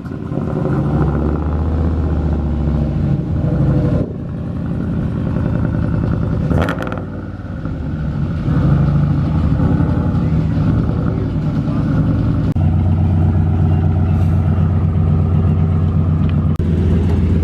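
Vehicle engines running steadily, with people's voices in the background.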